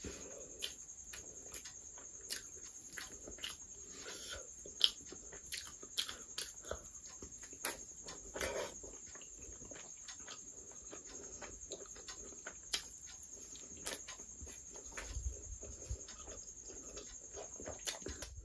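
Close-miked eating of curry with paratha and rice by hand: wet chewing and lip-smacking with frequent sharp mouth clicks, over a constant high-pitched whine.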